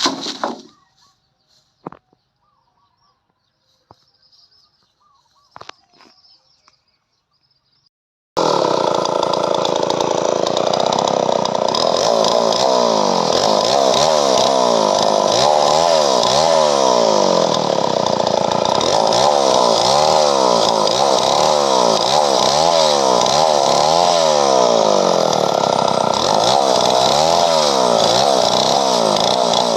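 Gasoline chainsaw running under load while cutting padauk wood, its engine pitch wavering up and down about twice a second. It starts abruptly about eight seconds in, after a few faint clicks and knocks.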